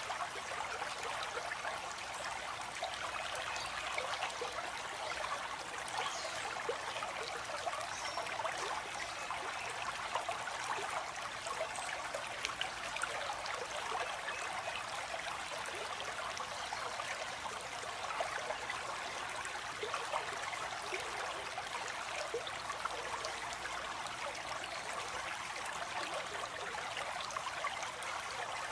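Water flowing in a stream, a steady splashing and trickling.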